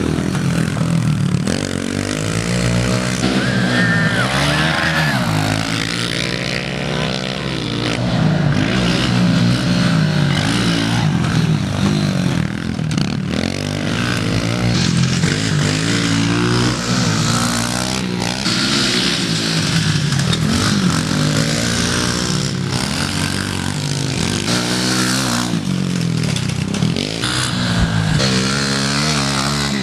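Pit bike's small single-cylinder four-stroke engine being ridden hard, revving up and dropping back again and again.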